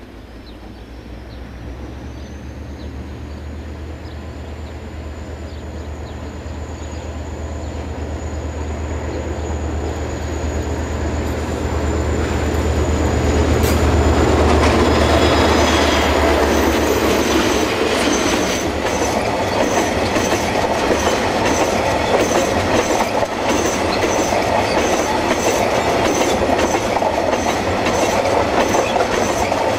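Two diesel-electric locomotives, a DFB and a DXB, approach and pass, their engines' low drone growing louder up to about halfway and then gone. A long rake of milk tank wagons follows, wheels clicking over the rail joints with a high wheel squeal.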